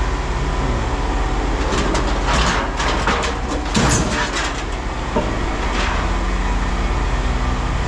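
Scrap metal clanking and rattling over a steady low machine hum, in a cluster about two to four seconds in, with one more knock about five seconds in.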